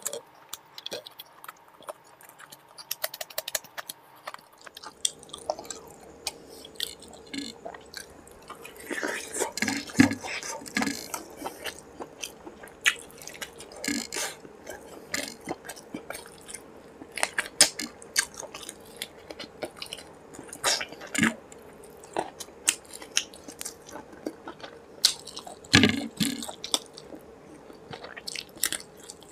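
Close-miked chewing and wet mouth sounds of a man eating rice and curry with his fingers, with irregular sharp clicks and squishy chews.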